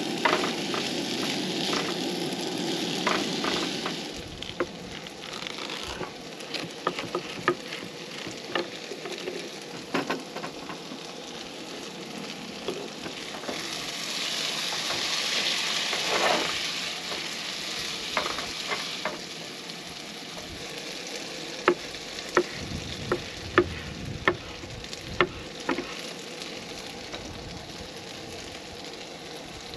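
Diced potatoes frying in a pan on a camp stove, sizzling steadily while a spatula stirs and scrapes them; the sizzle is loudest at the start and again midway. In the second half, a run of sharp knocks from a knife chopping on a wooden cutting board.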